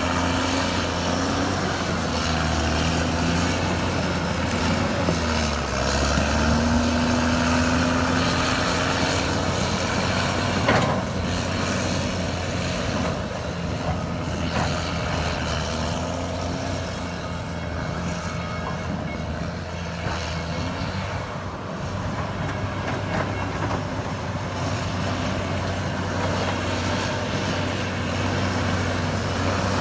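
Caterpillar D6R2 bulldozer's diesel engine running steadily under load while pushing mud and gravel. Its pitch rises briefly a few seconds in, and there is one sharp knock about eleven seconds in.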